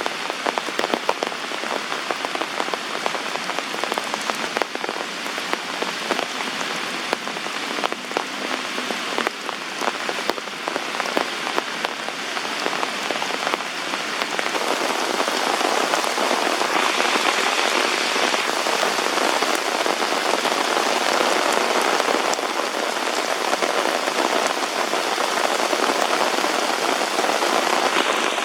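Heavy rain falling, a dense patter of drops that thickens into a louder, steadier downpour about halfway through.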